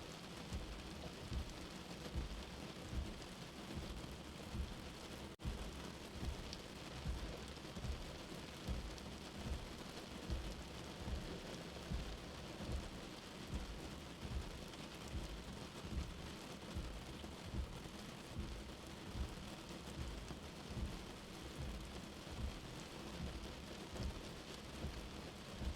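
Steady rain as heard from indoors, with a soft heartbeat thumping low underneath, roughly one beat a second. A momentary gap in the sound a little over five seconds in.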